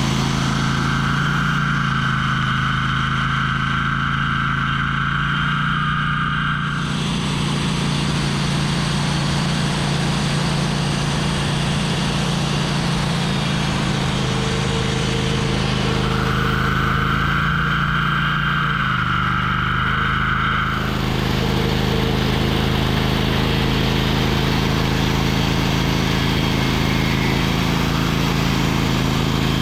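Sawmill engine running steadily under load while the saw cuts through an oak log, with a steady cutting hiss over the engine hum. A high, steady whine comes in twice, for several seconds each time, and then drops out.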